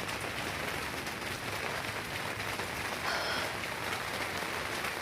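Steady rain falling, an even hiss of rain with no thunder standing out.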